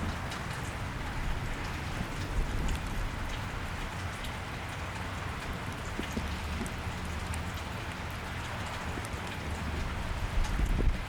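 Steady rain falling on a wet street: an even hiss with scattered ticks of individual drops, over a low rumble that swells near the end.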